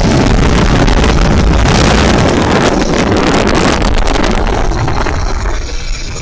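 Wind buffeting the microphone on an electric bike ridden at speed, a loud rushing noise with crackling gusts in the middle that eases a little near the end.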